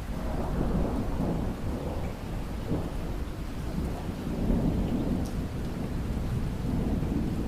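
Rain falling steadily with a long, low roll of thunder that sets in at the very beginning and swells again about halfway through.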